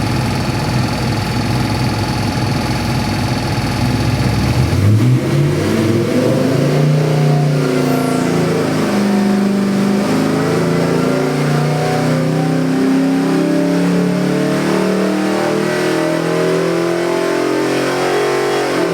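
383 cubic-inch small-block Chevy stroker V8 running on an engine dyno: it idles steadily, then about five seconds in it is revved up and keeps rising and falling through higher rpm.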